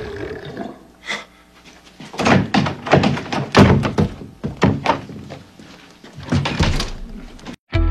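A quick, irregular series of thuds and knocks that stops abruptly near the end.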